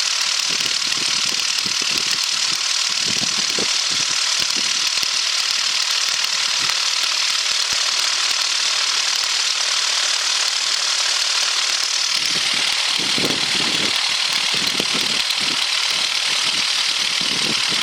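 Cessna light aircraft's piston engine and propeller at idle power, heard from inside the cabin as a steady, unbroken drone with a hissy edge while the plane waits holding short of the runway.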